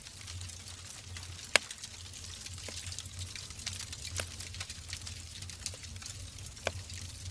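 Wood logs burning in a fireplace: scattered sharp crackles and pops over a steady hiss and low rumble, with one loud pop about a second and a half in.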